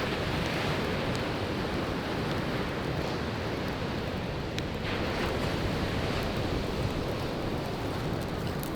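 Waves washing onto a beach in a steady surf, with a few sharp pops of firewood crackling in a campfire, one about halfway through and another near the end.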